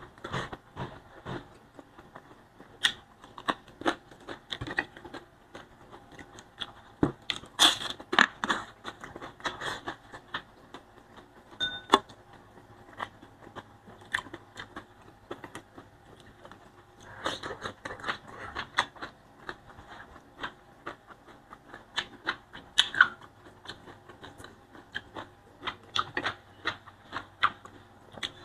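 Close-miked eating by hand: irregular chewing, crunching and wet mouth clicks from boiled leafy greens, rice and fried fish. The clicks come in denser runs a little past a quarter of the way in and again past the middle.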